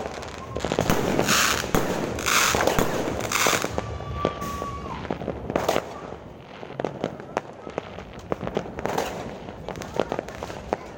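Fireworks going off: a rapid run of bangs and crackles, with three loud hissing bursts in the first few seconds, a short steady whistle about four seconds in, then dense crackling.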